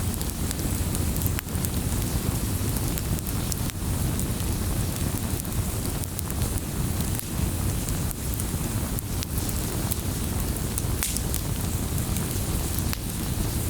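Wood fire burning in a fireplace: a steady low rush of flames with scattered sharp crackles and pops every second or two.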